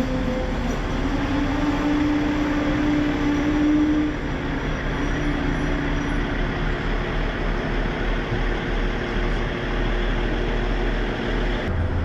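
Passenger train running: a steady rumble of rail noise with a steady hum that rises slightly in pitch about a second in and falls back about four seconds in.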